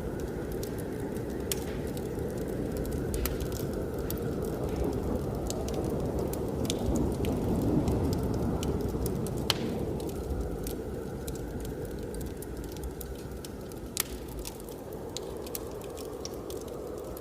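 Wood fire crackling with scattered sharp pops, a few standing out louder, over a steady low rush of blizzard wind.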